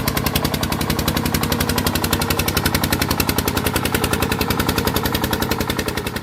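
Diesel engine of a home-built timber truck running with a rapid, even chugging beat, fading away near the end.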